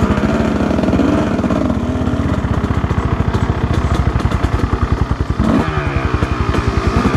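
Two-stroke 250 cc dirt bike engine running on a trail climb, its revs rising and falling with the throttle.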